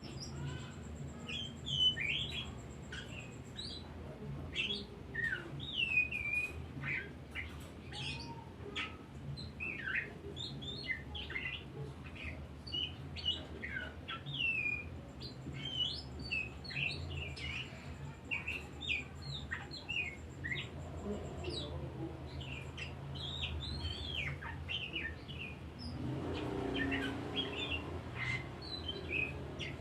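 Oriental magpie-robin (kacer) singing a continuous, varied song of quick whistles, chirps and sweeping notes. A thin, steady high-pitched buzz sounds in the background twice, and a low hum runs underneath.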